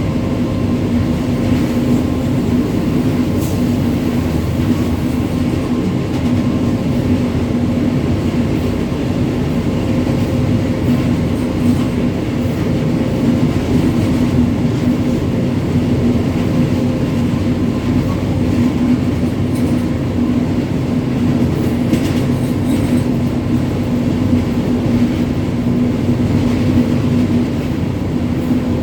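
WAG-9 three-phase electric freight locomotive running, a steady rumble with a constant electrical hum.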